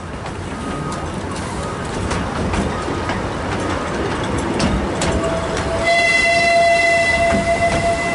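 Narrow-gauge passenger train running, heard from one of its coaches: a steady rumble of wheels on rail with scattered clicks. From about five seconds in, a long steady high-pitched tone sounds over it and holds to the end.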